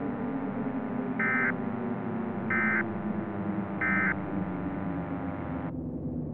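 Emergency Alert System end-of-message data tones: three short, identical warbling digital bursts about a second apart, marking the end of the alert. Under them runs a steady humming drone, whose upper part drops out near the end.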